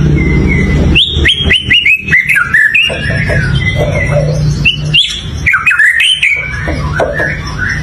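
White-rumped shama singing: quick runs of clear whistled notes sliding downward, mixed with sharp clicks, starting about a second in. A low hum sits underneath at times.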